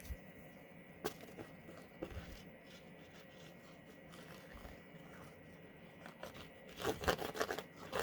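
Cardstock and paper layers being handled and put together: a few light taps, then a burst of paper rustling and scraping near the end.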